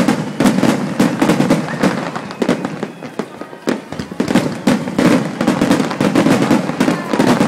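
Aerial firework shells bursting in quick succession: a dense run of overlapping bangs and crackles, several a second.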